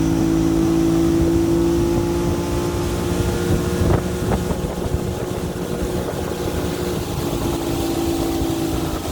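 Motorboat engine running steadily under way, its hum holding one pitch and easing off slightly in loudness toward the end. Two brief clicks about four seconds in.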